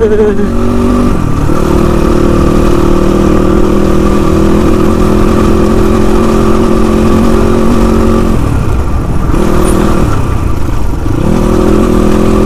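Motorcycle engine running at a steady pace while being ridden. The throttle eases off briefly about a second in and again from about eight to eleven seconds, then the engine picks up again.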